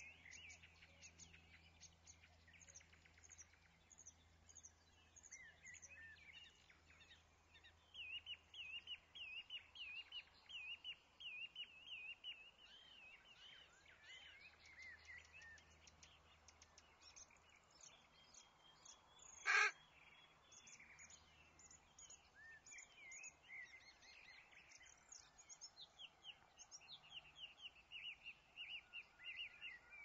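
Small birds chirping and twittering, faint, with runs of quick high chirps. About two-thirds of the way through, a single short, much louder sound stands out.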